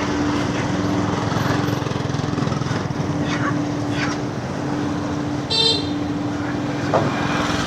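Steady vehicle running noise with a constant hum, and a short high-pitched toot about five and a half seconds in.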